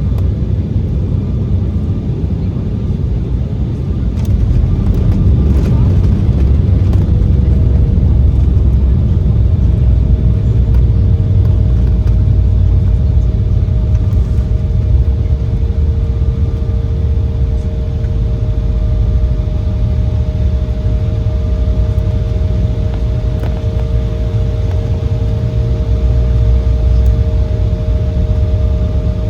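Embraer 175's GE CF34 turbofans and rolling gear heard from inside the cabin after landing: a steady low rumble with a steady engine whine. The rumble gets louder about four seconds in, and a second, higher whine joins a few seconds later.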